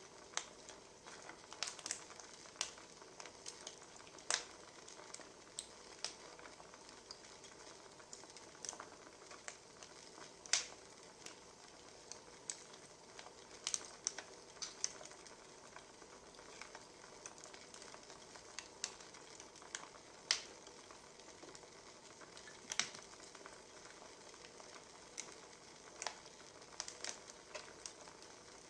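Burning firewood crackling: a soft steady hiss with irregular sharp pops and snaps every second or so.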